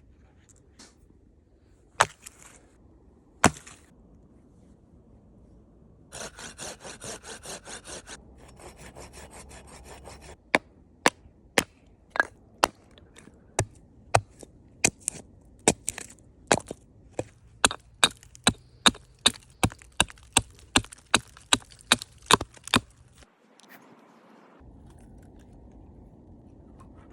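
A log being cut and split for a Swedish torch. Two sharp knocks come first, then a few seconds of rhythmic sawing strokes, then a long run of sharp blows into the wood at about two a second.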